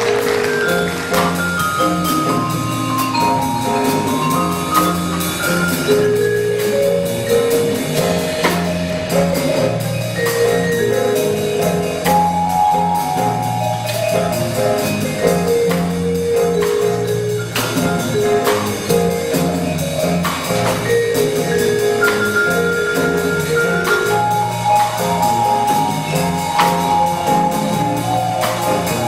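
School band playing a piece: a melody over a repeating bass line, with percussion keeping time.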